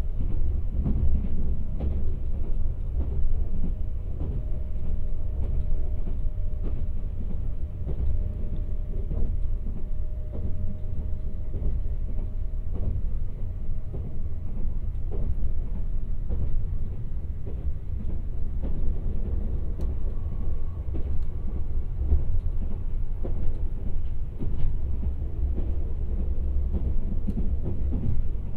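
Kintetsu 26000 series Sakura Liner electric train running, heard inside the passenger cabin: a steady low rumble with many short clicks of the wheels over the rails. A faint steady whine runs through roughly the first half.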